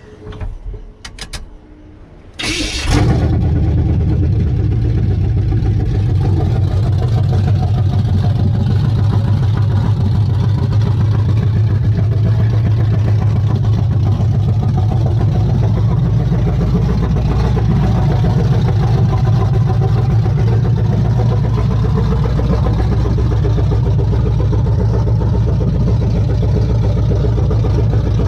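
Chevrolet C10's ZZ4 350 small-block V8 crate engine starting up: a few short clicks, then it fires about two and a half seconds in and settles into steady running.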